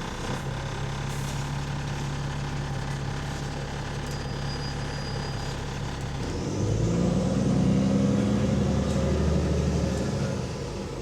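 Bus diesel engine idling steadily, then revving up and pulling harder about six and a half seconds in before easing off near the end, with the rasp of an exhaust leak.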